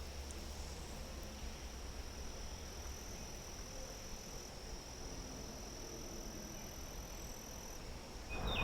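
Steady high insect trill, crickets or the like, over a low rumble, with a louder rushing noise coming up near the end.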